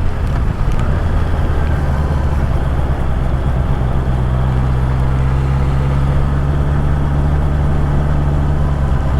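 Honda CB650R inline-four motorcycle engine running at a steady low speed, with wind and road noise in the rain, heard from inside the rider's helmet.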